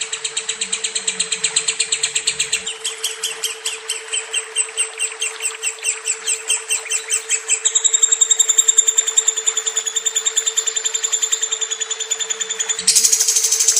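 Lovebird chattering in a long, unbroken trill of rapid high chirps, about six or seven a second. The chirp pattern shifts in pitch a few times, with a steady low hum underneath.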